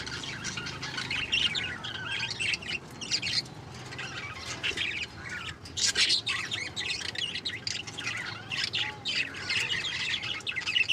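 Small pet parrots chattering continuously, a dense run of chirps and harsh squawks with no pauses.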